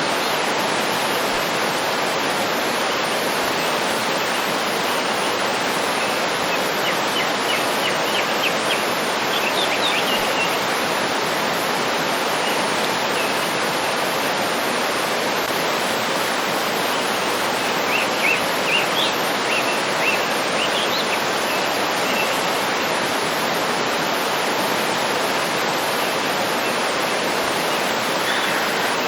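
Waterfall rushing steadily. Small birds chirp above it in two brief bursts, one about a quarter of the way in and one past the middle.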